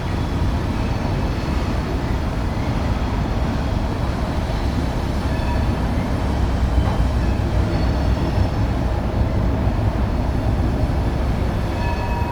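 Freight train cars rolling over the rails: a steady rumble with faint thin wheel squeals coming and going.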